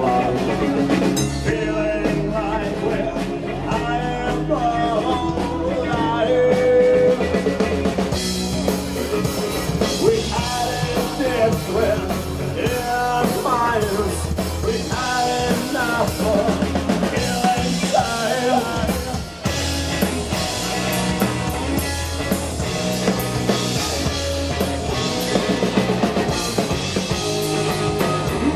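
Live rock band playing, with a drum kit and a melodic lead line over the band. The sound gets fuller and brighter about eight seconds in.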